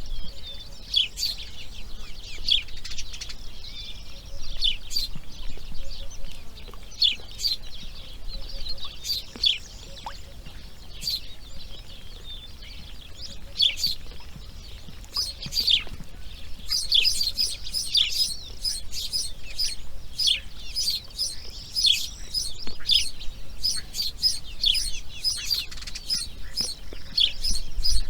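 Birds chirping: many short high chirps, each falling in pitch, coming faster and more densely from about halfway through.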